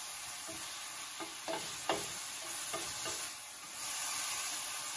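Diced carrots sizzling and steaming in a steel pot as a wooden spatula stirs them. Several light knocks of the spatula against the pot come between about one and three seconds in.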